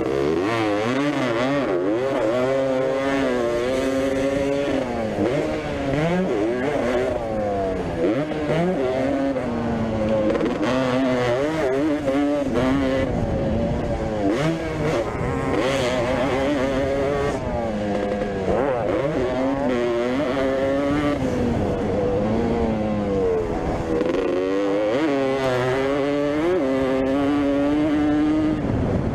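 Vintage motocross bike engines revving hard and dropping back again and again as they accelerate and shift, with more than one bike heard at once.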